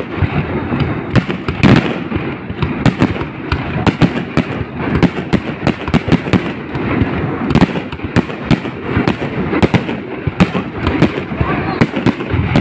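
Aerial fireworks bursting in quick succession: many sharp bangs and pops a second over a continuous crackling rumble.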